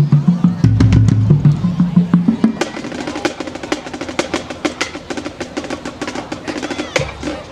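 Marching band drumline playing a fast cadence of rapid snare drum strikes over bass drums.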